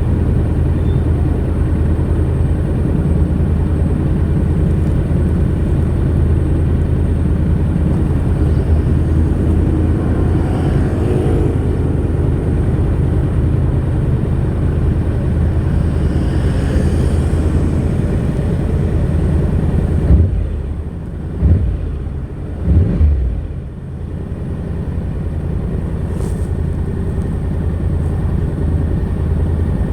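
Honda NC700X DCT motorcycle on its stock exhaust, running steadily while ridden, with a low parallel-twin drone. About two-thirds of the way through, the sound drops away and gives a few short low surges, then settles back into the steady run.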